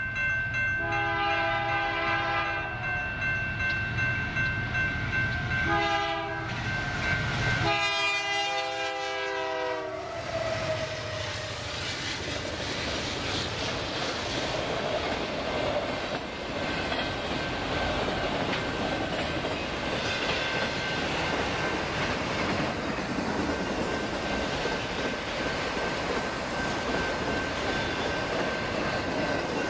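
Union Pacific freight train's locomotive horn sounding three blasts: a long one, a short one, then a long one held as the locomotives arrive, dropping in pitch as it ends. The diesel locomotives then pass and a long string of autorack cars rolls by with steady wheel-on-rail noise.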